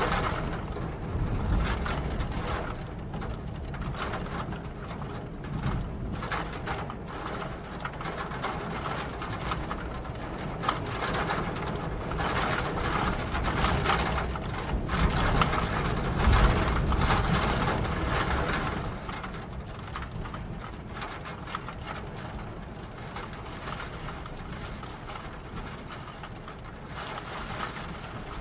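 Steady rain, a dense patter of close drops ticking on hard surfaces over a low rumble, growing heavier for a few seconds past the middle.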